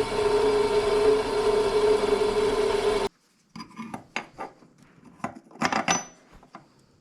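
An electric power tool runs steadily on steel, with a strong steady hum, and stops abruptly about three seconds in. Then come scattered light clinks and scrapes of the metal piece being handled.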